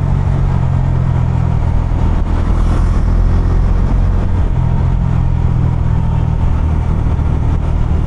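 Bajaj Dominar 250's single-cylinder engine and exhaust running under way, heard close from the rider's seat. The engine note eases for a couple of seconds near the middle, then picks up again.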